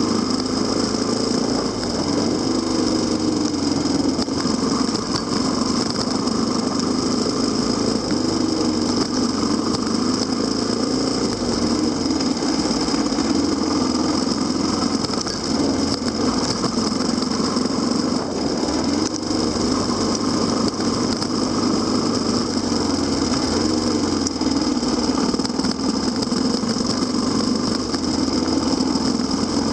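Kawasaki KLX250SR's single-cylinder four-stroke engine running under way, its pitch rising and falling again and again with the throttle.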